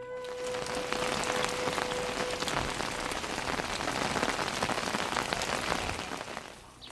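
Rain falling hard on a surface: a dense, steady mass of individual drop hits that fades away near the end.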